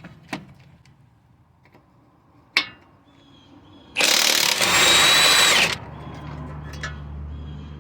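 Cordless impact gun runs in one loud burst of about a second and a half, with a steady whine through it, loosening one of the 22 mm bolts that hold the strut to the hub. A few light clicks of tools come before it, and a low steady hum follows.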